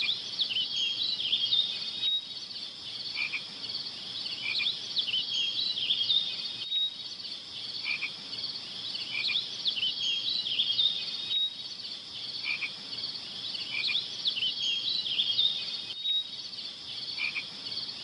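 A night-time chorus of frogs croaking with insects trilling: a steady high buzz dotted with many short chirps. The same pattern recurs about every four and a half seconds, like a looped nature-ambience recording.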